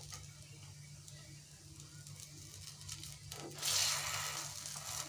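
Kuzhi paniyaram being turned over with a metal skewer in a hot, oiled cast-iron paniyaram pan. Light scraping of the skewer in the wells gives way, about three and a half seconds in, to a burst of sizzling as a paniyaram is flipped into the oil.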